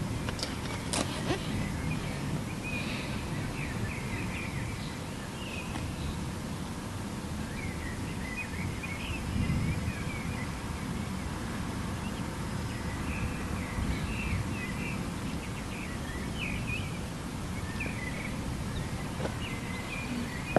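Small birds chirping on and off over a steady low outdoor rumble, with a brief swell of the rumble about halfway through.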